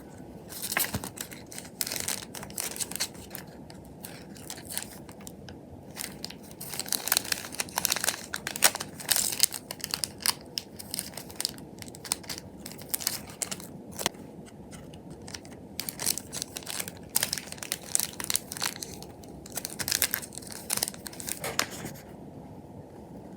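Gift packaging being handled and packed: irregular crinkling, rustling and tearing in quick bursts. It stops about a second before the end.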